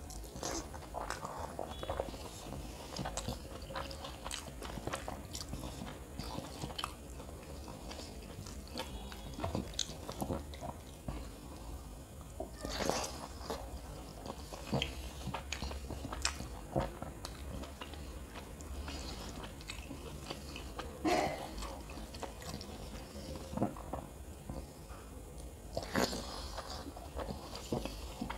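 Close-up chewing and wet mouth sounds of a person eating kottu (chopped flatbread stir-fry) by hand, with scattered smacks and soft clicks as fingers work through the food, over a low steady hum.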